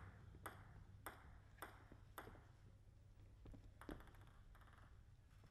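Table tennis ball clicking against bat and table: four light, evenly spaced pings about half a second apart, then a louder one near four seconds in, with a hushed hall between.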